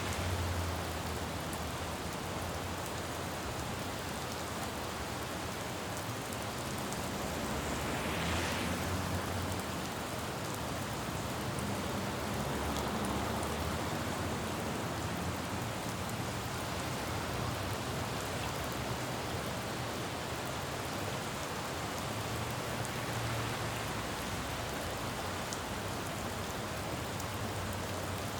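Steady rain falling on a road, with traffic rumbling low underneath that swells and fades as vehicles pass. About eight seconds in, a passing vehicle's hiss rises briefly above the rain.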